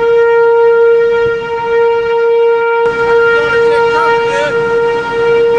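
Outdoor tornado warning siren sounding a loud, steady single-pitched tone.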